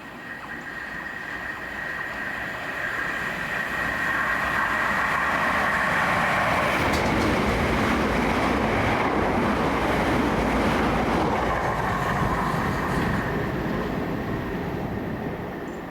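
A train passing through at speed: the sound builds over the first few seconds, is loudest through the middle as it goes by, and fades near the end, with a steady high whine over the rumble.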